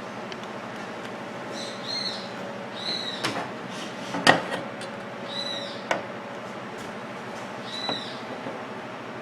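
A bird chirping in short rising-and-falling calls, about four times, over a steady faint hum. Scattered sharp clicks and knocks of small parts being handled, the loudest about four seconds in.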